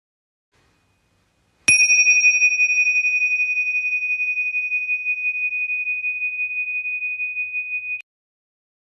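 A single high bell-like tone, struck once about two seconds in. It rings with a slight wavering and slowly fades for about six seconds, then cuts off abruptly.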